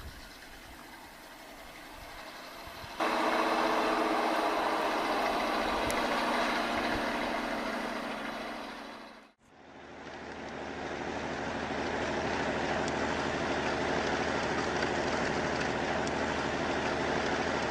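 Heavy truck engine running steadily. It is quieter at first, jumps abruptly louder about three seconds in, drops out briefly just past nine seconds, then comes back as a steady engine sound with a different character.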